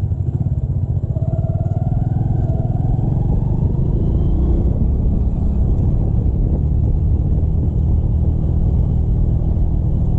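Motorcycle engine running steadily while riding, a dense low rumble with road noise. A faint rising whine comes in about a second in.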